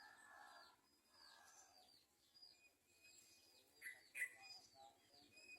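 Yellow-vented bulbuls calling faintly: a run of short, high chirps that drop in pitch, with one louder call about four seconds in.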